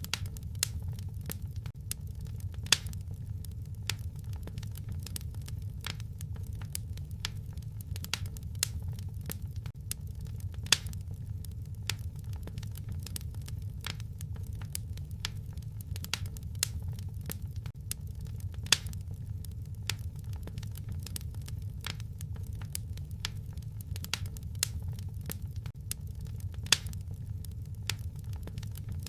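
Wood fire crackling in a fireplace: a steady low rumble of flames under frequent sharp pops and snaps, with a louder pop about every eight seconds.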